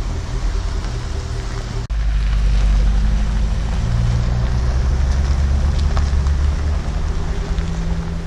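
Jaguar F-Pace SVR prototype's supercharged V8 running at fairly steady revs, with a rushing noise like wind over it. The sound cuts out for an instant about two seconds in, then carries on.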